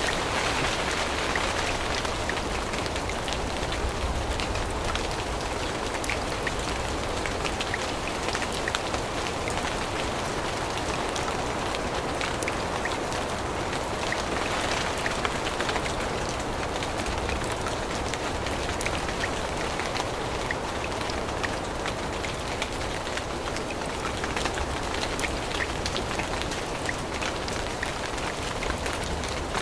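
Steady rain falling through forest foliage, a dense even patter of many small drops.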